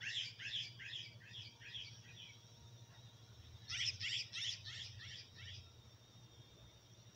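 A small bird calling: two runs of quick, high chirps at about four a second, one at the start and one beginning about three and a half seconds in.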